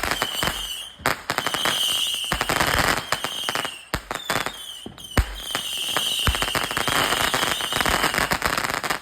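Fireworks going off in a dense, rapid run of crackling bangs. A high whistle comes and goes over the crackle, with short lulls about a second and four seconds in and one sharper bang about five seconds in.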